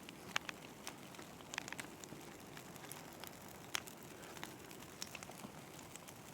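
Large bonfire of pine logs burning, crackling with scattered sharp pops over a low steady hiss.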